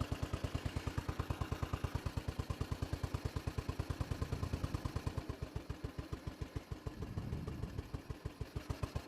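Royal Enfield Bullet Machismo 500's single-cylinder four-stroke engine idling with an even thump, about eight or nine beats a second, with a short swell of noise about seven seconds in.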